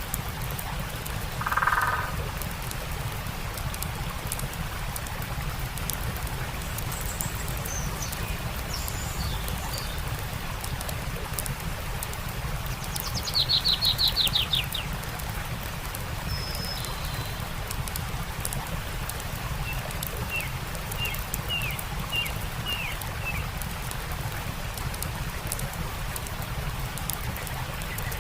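Campfire crackling with scattered small pops over the steady rush of a stream, while birds call: a short call about two seconds in, a fast descending trill near the middle, and a run of short chirps near the end.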